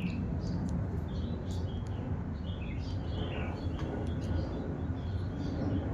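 Sooty-headed bulbul giving a scatter of short high chirps over a steady low background hum.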